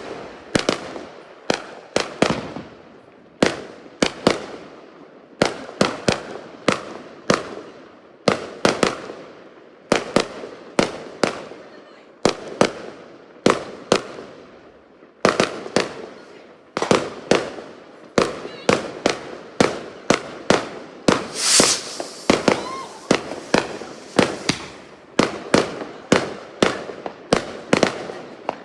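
Fireworks going off in quick succession: a steady string of sharp bangs, about two a second, each trailing off in an echo. About two-thirds of the way through comes a brief hissing crackle.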